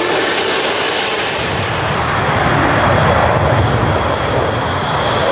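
Fighter jet engine noise: a loud, steady rush with a deeper rumble growing in the second half.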